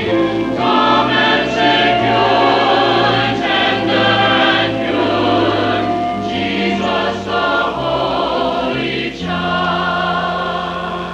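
Church chancel choir singing a Christmas cantata in held, sustained chords over steady low accompaniment notes, from an old VHS tape recording.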